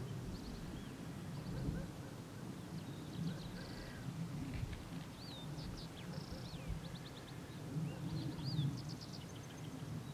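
Wild birds calling in the open: scattered high chirps, whistled rising-and-falling notes and quick trills. Under them runs a steady low rumble.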